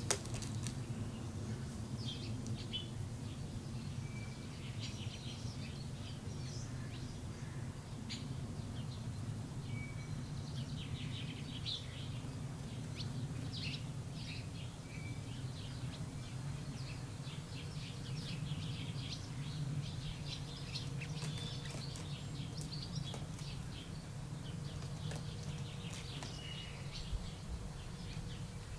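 Many small birds chirping and twittering in quick, scattered high notes, over a steady low rumble of background noise.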